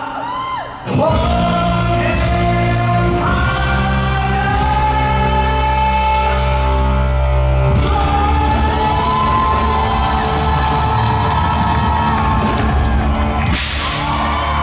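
Live rock band and male vocalist performing in a concert hall. After a brief dip the full band comes in heavily about a second in, with strong bass under long held sung notes, and a cymbal crash near the end. Audience shouts and whoops are mixed in.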